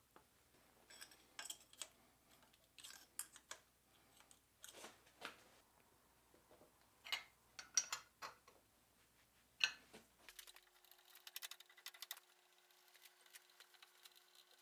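Faint, scattered clicks and taps at irregular intervals. About ten seconds in, the low hum drops away and a faint steady tone with fine rapid ticking takes over.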